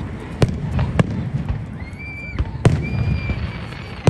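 Fireworks going off: three sharp bangs over a low rumble, with a high held whistle twice in the middle.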